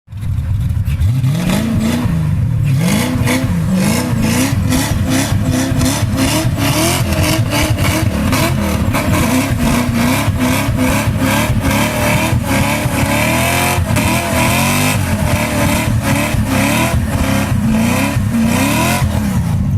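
1988 Ford Mustang drift car's engine revving up and down over and over, the pitch climbing and dropping every second or so, as the car tries to drive through snow.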